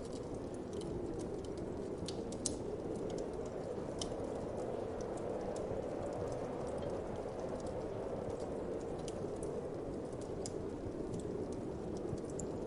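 Wood fire crackling, with irregular sharp pops, one louder than the rest about two and a half seconds in, over a steady whoosh of winter wind.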